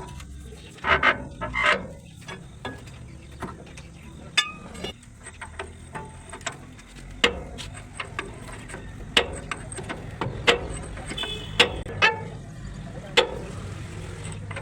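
Irregular sharp metallic knocks and clicks of hand tools working on truck parts, roughly one or two a second with a quick cluster about a second in, over a low steady hum.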